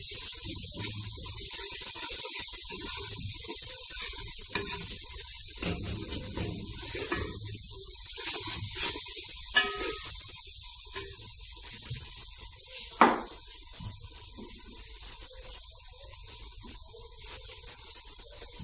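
Onion-tomato masala sizzling in oil in a metal pot, stirred with a metal spoon. The spoon knocks sharply against the pot a few times.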